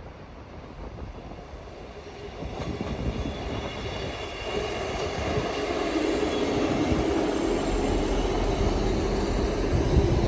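A train approaching and running past on the main line, getting louder from about two seconds in, with a steady hum and a higher whine over the rumble of the wheels.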